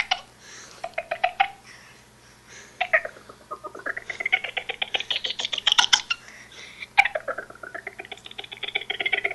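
A boy's voice making a dolphin-like sound: high, squealing, rapid clicking squeaks whose pitch rises and falls. There is a short burst about a second in, a longer rising one that runs for about three seconds, and another from about seven seconds in.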